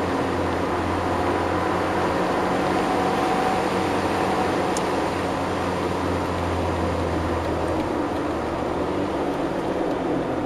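Suzuki Cappuccino's F6A 657 cc turbocharged three-cylinder engine running at steady revs, heard from inside the cabin with wind and road noise. There is a brief click about five seconds in.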